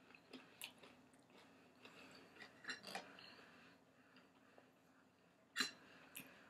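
Faint chewing and mouth sounds of a person eating, with a few soft clicks and one sharper click about five and a half seconds in.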